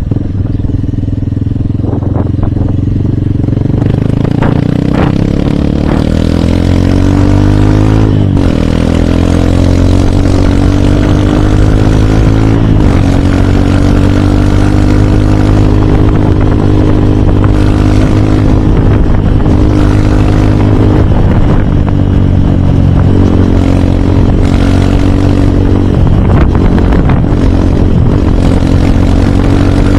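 Hero Hunk motorcycle's single-cylinder four-stroke engine pulling under way. Its pitch climbs, drops with an upshift about eight seconds in and again about four seconds later, then runs at a steady, slowly rising cruise.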